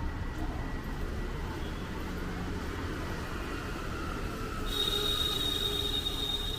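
City street ambience: a steady low traffic rumble. About five seconds in, a high, steady whine with a hiss above it sets in and holds.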